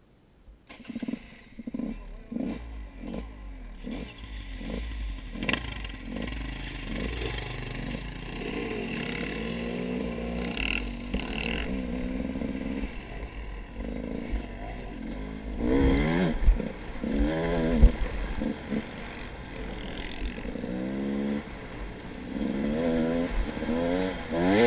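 A motor vehicle engine running, its pitch rising and falling as it revs, starting suddenly just under a second in, with a few knocks near the middle.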